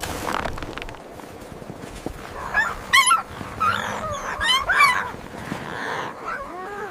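Canine yipping and whining: a run of short, high, wavering calls from about two and a half seconds in, with a few more near the end.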